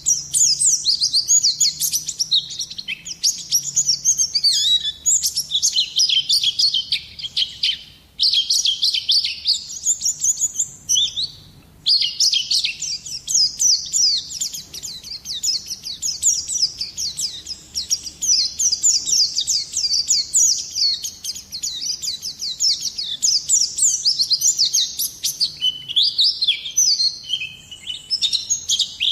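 Pleci (white-eye) singing a long, fast twittering song of high chirps, with brief pauses about 8 and 11 seconds in.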